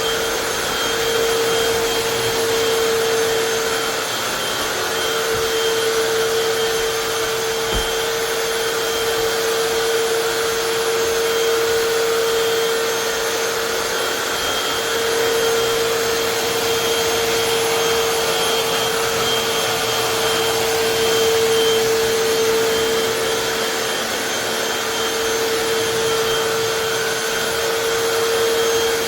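Hoover FloorMate Deluxe wet/dry hard-floor cleaner running, its suction motor giving a steady whine over a rushing hiss, swelling and easing slightly. A single brief low bump about eight seconds in.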